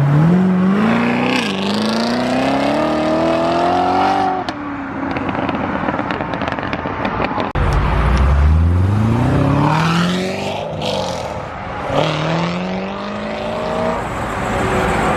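Cars accelerating hard one after another, each engine note climbing steadily in pitch under full throttle. The first run fades about four seconds in, a second starts loud and low about halfway through, and a third rises near the end.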